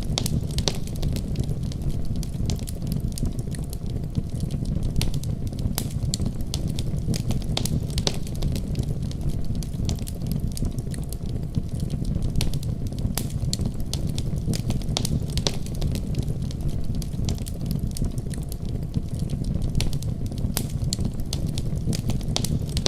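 Wood fire crackling with frequent irregular sharp pops, over a steady deep rumble of a winter storm.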